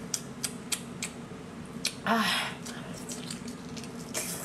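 Close-miked wet chewing and lip-smacking clicks from a person eating sauced octopus, with a louder rush of breath or slurp about two seconds in.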